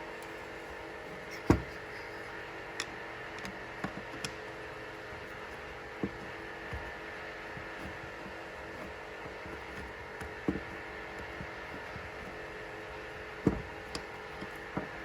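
Scattered light clicks and knocks of screws, a screwdriver and metal parts being handled as an old Tecalemit air grease gun's housing is screwed back together, the sharpest knock about a second and a half in, over a steady hum.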